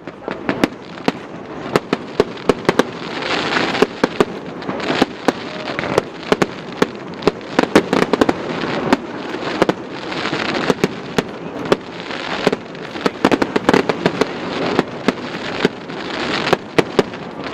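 Fireworks going off in rapid succession: many sharp bangs at irregular intervals over continuous crackling that swells and eases every couple of seconds.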